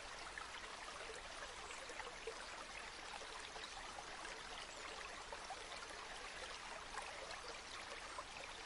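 Steady gentle flow of a river, a continuous babble of water with many small trickles and splashes.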